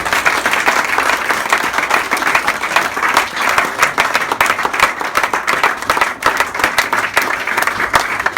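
A group of people applauding, with dense, steady clapping.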